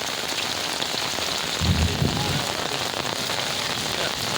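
Heavy rain falling steadily, an even hiss, with a brief low thump about halfway through.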